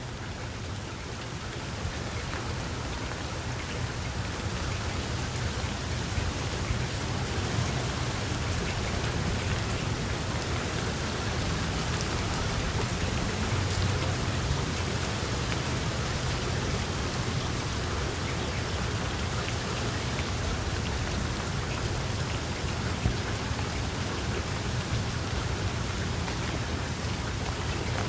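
Steady, dense rainfall, growing a little louder over the first few seconds and then holding even, with a steady low rumble underneath.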